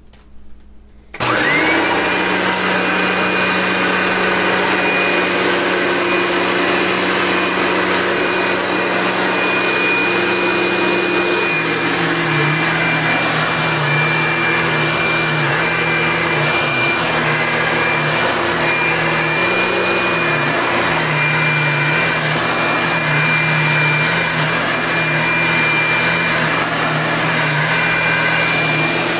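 Two vacuum cleaners, a Eureka Boss Lite and a Hoover Elite, switched on about a second in and running together with a steady motor whine.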